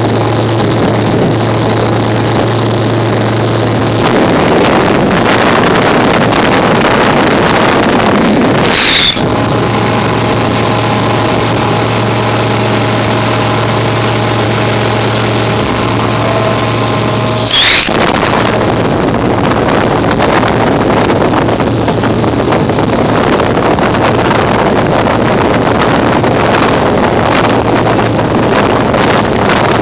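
MerCruiser 4.3 liter V6 boat engine running as the boat moves across the water, with wind on the microphone. A steady engine hum gives way to louder rushing wind and water noise about four seconds in, returns, and then gives way again after two brief sharp loud noises about 9 and 18 seconds in.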